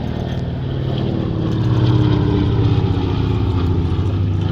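Lockheed 12A Electra's twin radial piston engines droning in a pass, growing louder to a peak about halfway through, with the engine note dropping slightly in pitch as it goes by.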